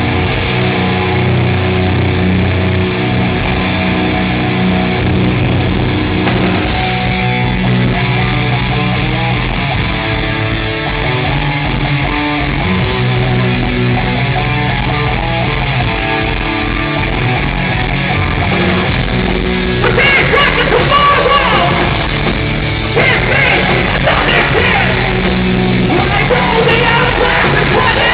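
Heavy rock band playing live: guitar and bass chords ring on. About two-thirds of the way through, louder yelled vocals come in over the band.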